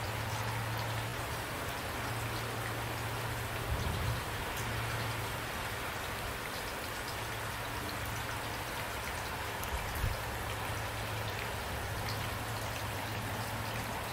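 Steady rain falling, with individual drops pattering on a surface, over a low steady hum; two brief low thuds about four and ten seconds in.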